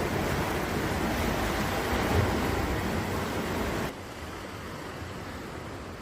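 Steady noise of sea surf and wind on a beach, with no distinct events, dropping suddenly to a quieter level about four seconds in.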